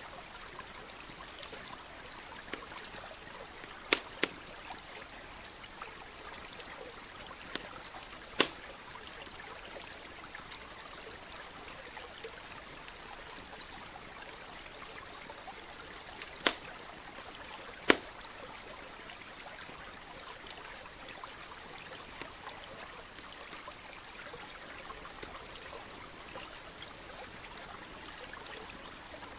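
Campfire crackling, with occasional sharp pops, four of them louder than the rest, over the steady rush of a flowing stream.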